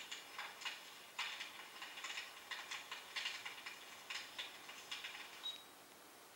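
Irregular bursts of crackling and clicking, coming in clusters, with a short high beep about five and a half seconds in.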